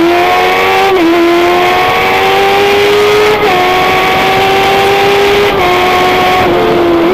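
Racing motorcycle engine at high revs under hard acceleration, shifting up through the gears: its pitch climbs steadily and dips briefly with each upshift, about every two seconds.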